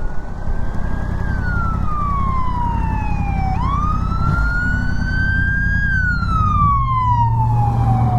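Fire engine siren in a slow wail, its pitch falling and rising in long sweeps of about two and a half seconds each way, loud and close by.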